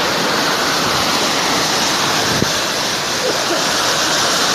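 Steady rushing noise of heavy monsoon rain and running water, an even dense hiss with no let-up.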